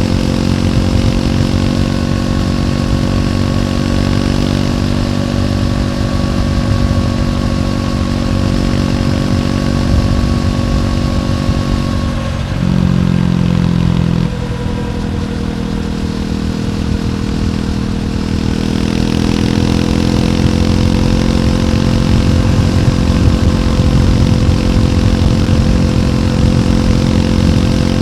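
Triumph Scrambler 400X's single-cylinder engine running through its stock exhaust while riding. The engine note holds steady, dips about halfway through, then climbs slowly as the bike picks up speed.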